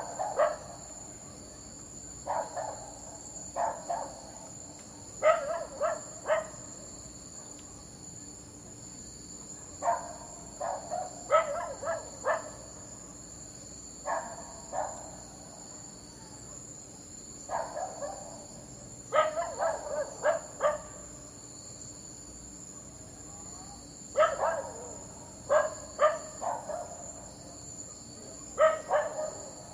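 A dog barking in bouts of two to four barks every few seconds. Crickets trill steadily and high-pitched underneath.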